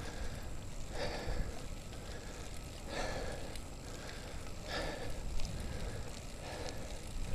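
A cyclist breathing hard while pedalling uphill: a heavy exhale about every two seconds, over a steady low rumble.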